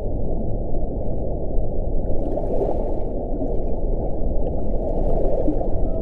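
Wind blowing in a low, steady rush, swelling in gusts about two and a half seconds in and again around five seconds.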